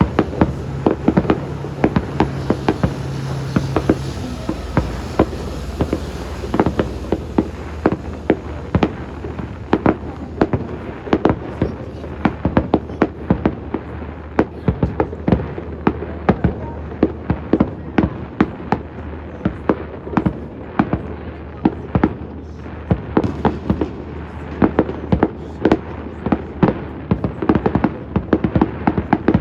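Fireworks going off in quick succession: a dense run of sharp bangs and crackles, several a second.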